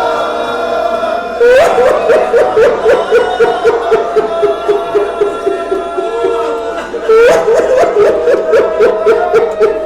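A man's voice wailing in mourning. It holds a long cry, then breaks into a sudden rising wail about one and a half seconds in and again near seven seconds, each followed by rapid sobbing pulses.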